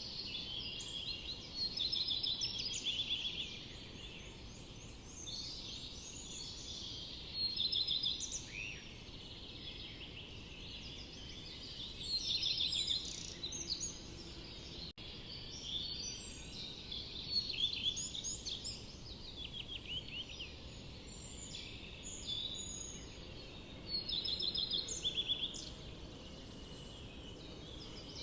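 Songbirds singing in a forest: several birds overlap in quick, trilling and chirping phrases that come in louder bursts every few seconds, over a steady low background hiss.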